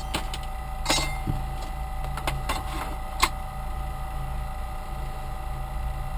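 A 12-volt PC cooling fan running with a steady hum and an unwanted noise, which the owner puts down to a bad fan rather than to it hitting its framework. A few sharp clicks and taps cut across it, the loudest about a second in and about three seconds in.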